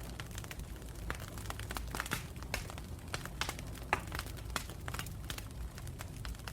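Wood campfire burning: irregular sharp crackles and pops over a low steady rumble of the flames.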